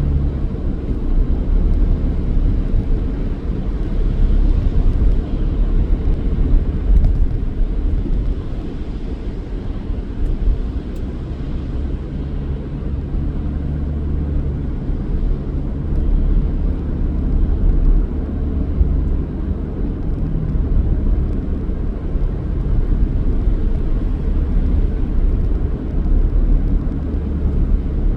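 Car being driven: a steady low rumble of engine and road noise that swells and eases slightly without any sharp events.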